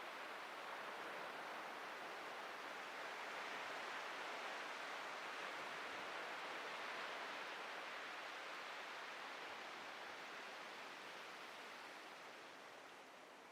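Atlantic ocean surf: a wave washing up the beach with a soft, steady hiss that swells over several seconds and then slowly fades as it recedes.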